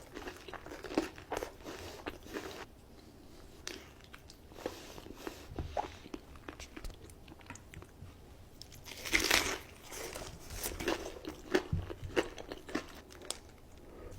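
Close-miked eating of crunchy food: irregular crunching bites and chewing, with the loudest crunch about nine seconds in.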